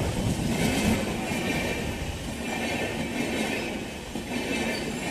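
Indian Railways passenger train running past on the line: a steady rush of wheels on rail that swells and eases a few times as the coaches go by.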